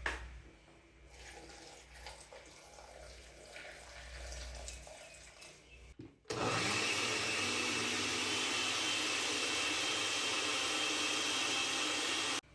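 Quiet clicks and knocks of handling, then about six seconds in a tap is turned on and water runs steadily at a strong flow, cutting off suddenly near the end.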